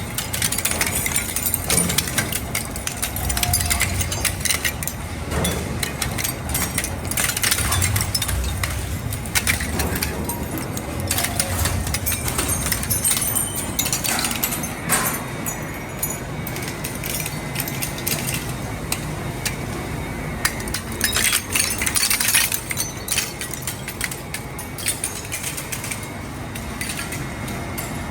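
Dual-shaft shredder tearing aluminum scrap: dense, irregular metallic clanking and clinking over a low rumble from the machine. A faint steady whine joins in after about twenty seconds.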